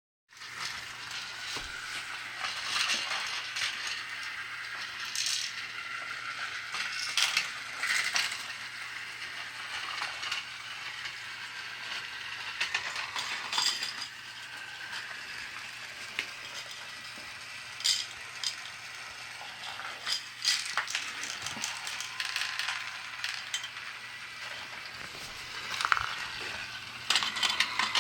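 Battery-operated plastic toy truck-loading set running: a small electric motor hums steadily while plastic parts and pieces click and rattle irregularly, with louder clatters now and then.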